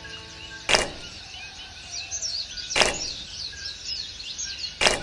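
Many small birds chirping throughout, with three sharp knocks about two seconds apart.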